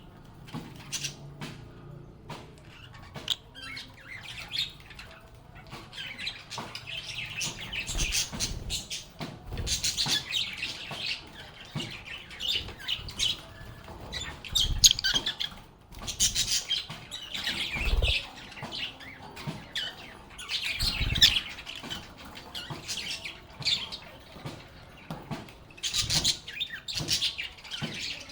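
Lovebirds chirping and chattering in quick, high calls that overlap almost without pause, with a few short, dull thumps mixed in.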